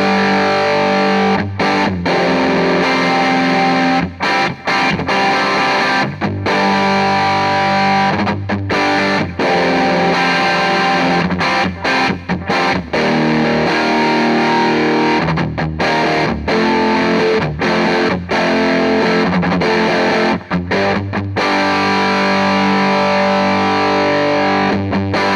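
Heavily distorted electric guitar playing rock riffs through an EarthQuaker Devices White Light overdrive pedal, with the pedal's gain fully up and its comp switch in the minus position. Sustained chords are cut by many short, abrupt stops.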